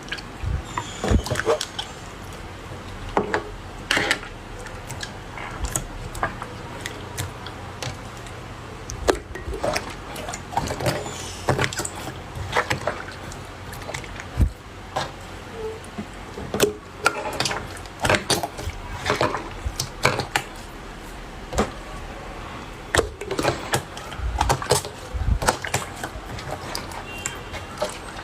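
Slime being pressed, poked and stretched by hand, making irregular sticky clicks and pops about every second.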